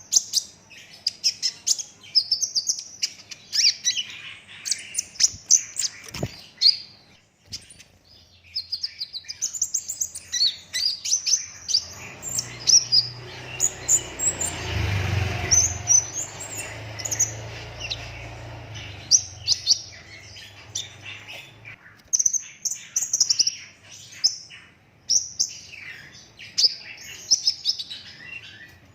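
Kolibri ninja sunbird singing in full song: fast, high-pitched twittering trills and chirps delivered in close, rapid-fire runs, with a short pause partway through. A low rumble sits under the song for several seconds midway.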